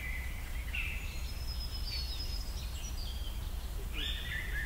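Birds calling: thin high notes and short glides, over a steady low background rumble.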